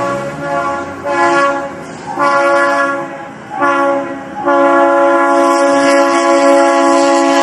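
Approaching train's horn sounding as a warning to the lorry stalled on the crossing: three short blasts, then one long unbroken blast from about halfway through.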